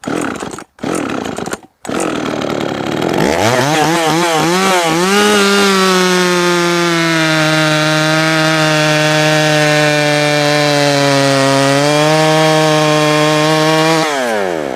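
Two-stroke Jonsered 525 chainsaw being pull-started with a few short bursts. It catches about two seconds in, revs unevenly and climbs, then holds steady at high revs. Near the end the revs drop sharply. The restart takes several pulls because killing it with the choke floods the cylinder.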